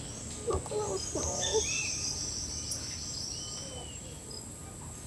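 Tropical rainforest ambience: a steady high-pitched insect drone, with birds calling over it: a quick run of short chirps about a second in and a couple of arched whistled calls.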